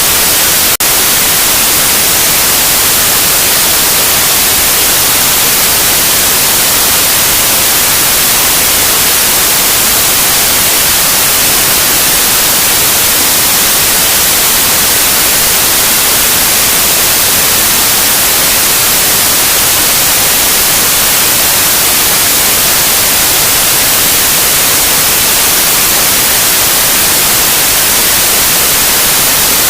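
Loud, steady white noise: an even hiss spread across the whole range and brightest at the top. One very brief dropout about a second in.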